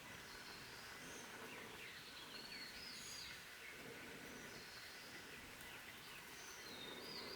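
Small wild birds calling: a scatter of short high whistles and quick downward-sliding chirps over a faint steady hiss.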